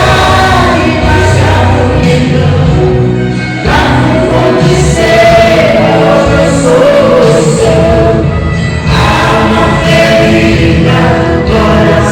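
Choir singing a gospel hymn with instrumental accompaniment, in phrases with short breaks between them.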